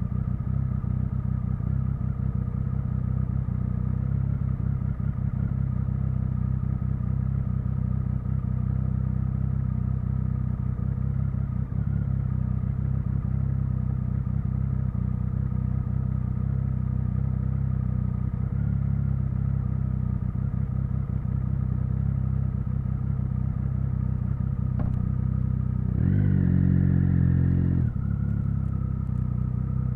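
Triumph Speed Triple 1050's inline-three engine running at steady low revs, with a brief louder burst of throttle about three-quarters of the way through before settling back.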